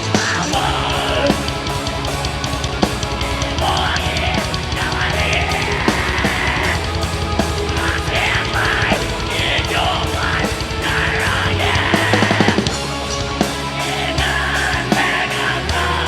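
Heavy metal band playing live: loud distorted guitars over fast, dense drumming, with a quick run of drum strokes about twelve seconds in.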